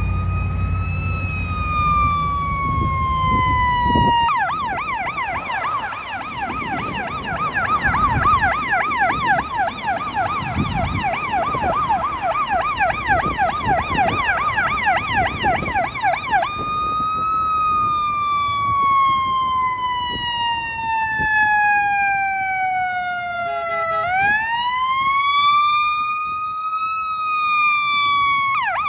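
Fire engine's electronic siren running while responding. It starts on a slow rising-and-falling wail, switches to a fast yelp about four seconds in, and goes back to the wail at about sixteen seconds. The wail dips and sweeps up again near the end, then snaps back to the yelp. A low rumble sits under the opening seconds.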